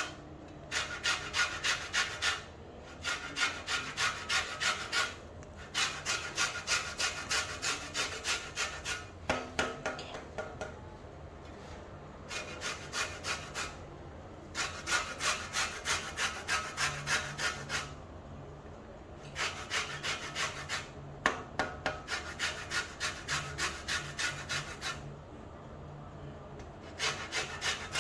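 Orange peel being grated on a hand grater: quick rasping strokes, about four a second, in runs of a few seconds with short pauses between.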